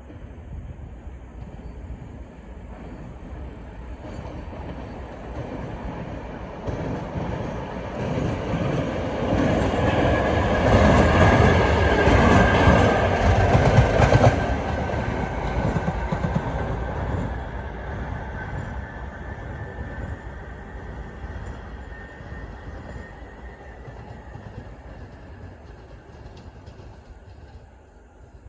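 A train passing at speed: the rumble of wheels on rails builds, is loudest about halfway through, then fades away, with a thin high whine through the middle.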